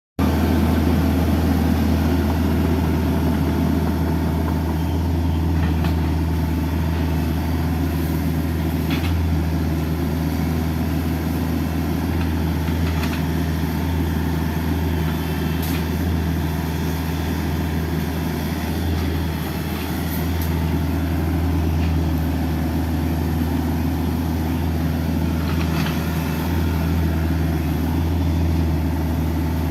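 Excavator's diesel engine running steadily with a deep, even hum, a few faint clicks or knocks over it.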